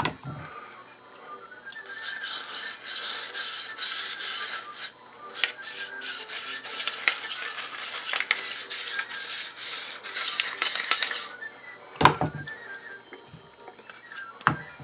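Brass wire brush scrubbing the metal parts of an old hand-crank coffee grinder in quick back-and-forth strokes, in two spells of several seconds, cleaning residue down to bare metal. A couple of sharp knocks follow near the end.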